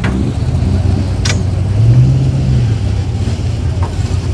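Stock car V8 racing engines running in a low steady drone, one revving up and back down about two seconds in. Two short sharp clicks sound near the start and just over a second in.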